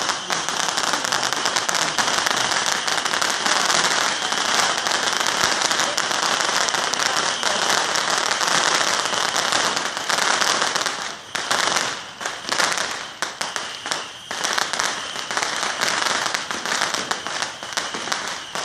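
A long string of firecrackers going off in a dense, unbroken crackle. After about eleven seconds it breaks up into separate bursts with short gaps between them.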